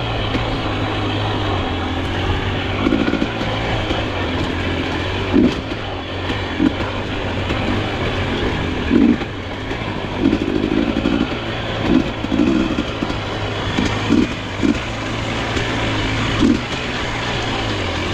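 Dirt bike engine running at low revs while riding a trail, with short louder throttle bursts every second or two.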